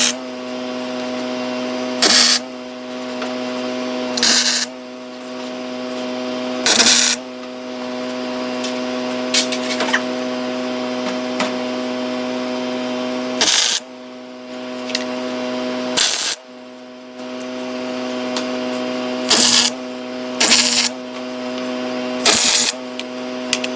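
Welder tack-welding aluminum boat panels: about eight short bursts of arc noise, each under half a second and spaced a few seconds apart, over the steady electrical hum of the welding machine.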